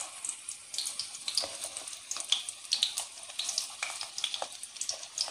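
Stuffed bitter gourd pieces sizzling in shallow hot oil in a metal kadai: a steady hiss with frequent small crackles and spits.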